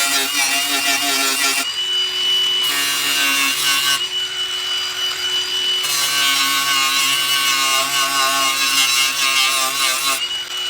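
Electric grinder cutting into the steel of a push-mower deck's side chute in three passes, the last and longest in the second half; between passes the motor runs free with a steady high whine, and its pitch drops under load while the disc grinds. The metal is being ground clean to prepare it for welding.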